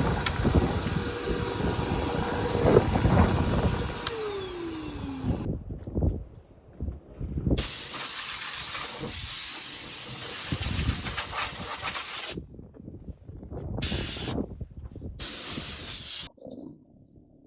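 A motor's steady whine winds down in pitch about four seconds in. After a short quiet gap comes loud hissing air in long blasts that start and stop abruptly, several times.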